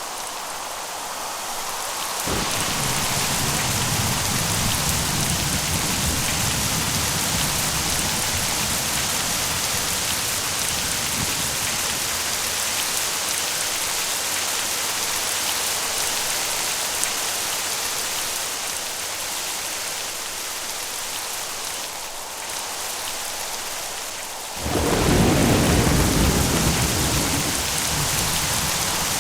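Steady rain hissing in a thunderstorm. A low roll of thunder starts a couple of seconds in and dies away over several seconds. Near the end a sudden, louder thunderclap rumbles for a few seconds.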